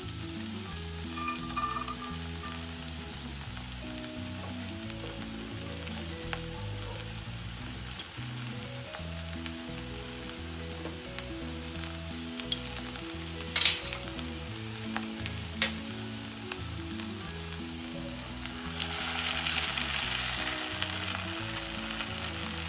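Gobi manchurian frying in a steel pan: a steady faint sizzle while a spatula stirs it, with occasional clicks of the spatula on the pan, the sharpest about two-thirds of the way through. Near the end the sizzling grows louder as cornflour slurry is poured in to thicken the sauce.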